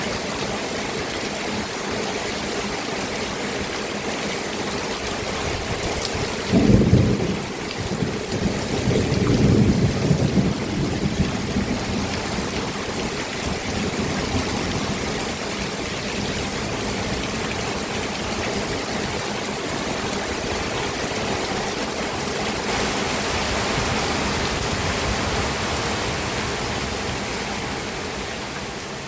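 Steady rain falling, with a sudden clap of thunder about seven seconds in that rolls on as a low rumble for several seconds. The rain fades out near the end.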